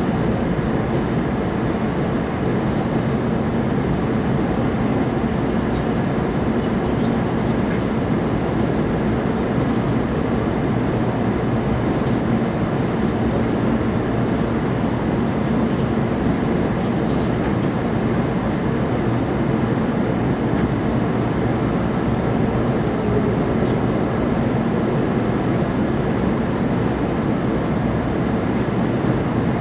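Steady running noise of a JR Kyushu 800 series Shinkansen heard from inside the passenger car: an even rumble and hum of wheels on track as the train slows along a station platform.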